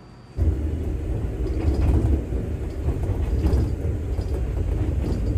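Enoshima Electric Railway (Enoden) train running along the track, heard from inside the car: a steady low rumble of wheels on rails with a few faint clacks, starting abruptly about half a second in.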